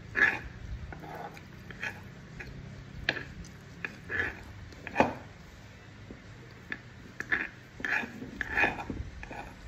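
Close-up mouth sounds of a person eating rice and chicken: irregular wet chewing, lip smacks and clicks, a few of them louder.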